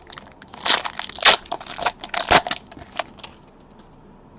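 A foil trading-card pack wrapper being torn open and crumpled: a quick run of sharp crinkling and tearing rustles that stops a little over three seconds in.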